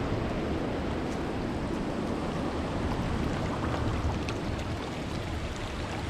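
Steady rushing of water welling out of an underground spring, with a low rumble underneath.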